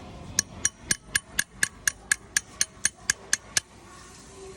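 A hammer tapping on a metal part of an old air compressor during restoration: about fourteen quick, even blows, roughly four a second, each with a short ring, then it stops.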